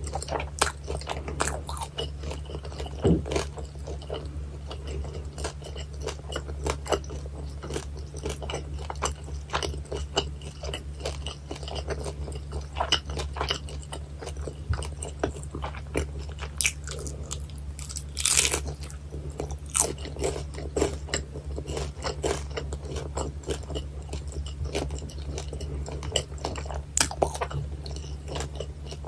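Close-miked eating of crispy battered guobaorou (Chinese sweet-and-sour fried pork): a steady run of crisp crunches and wet chewing clicks, with one louder, longer crunch about two-thirds of the way through. A steady low hum runs underneath.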